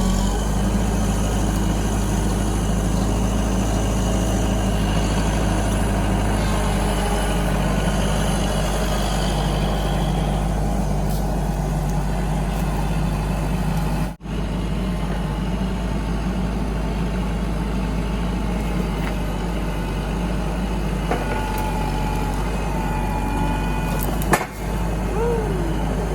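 Kubota tractor's diesel engine running steadily at constant speed. It cuts out for a moment about 14 seconds in and again near the end.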